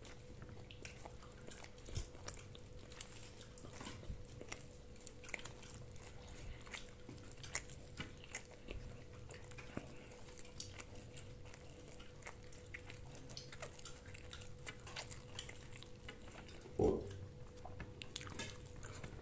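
Person chewing food: faint, irregular mouth clicks and smacks, with one brief louder sound near the end.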